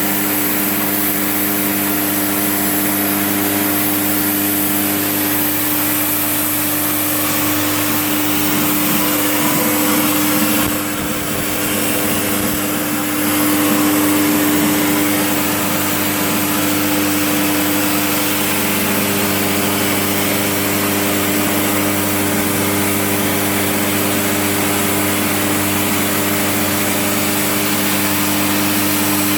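An 80 A Migatronic plasma cutter's arc cutting 12 mm steel plate on a CNC table: a loud, steady hiss with a constant hum under it. The hiss dips briefly about eleven seconds in, then carries on.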